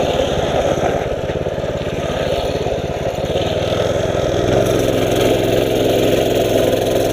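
Mini bike's small engine running as it rides along, with wind noise on the microphone. The engine note becomes steadier about four seconds in.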